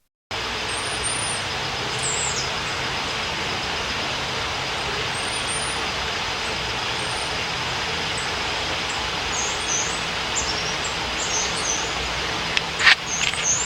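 Black-and-white warbler singing: short, high, thin squeaky notes, scattered at first and coming in quick runs in the last few seconds, over a steady hiss of background noise. A few sharp clicks near the end are the loudest sounds.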